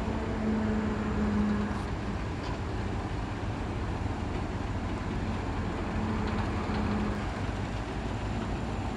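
Diesel engine of heavy earthmoving machinery running steadily, its low hum swelling about a second in and again about six seconds in.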